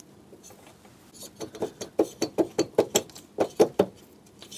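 A quick run of about a dozen light metal knocks and clinks as an alloy cylinder head is worked down over the barrel studs of a Suzuki K10's two-stroke engine.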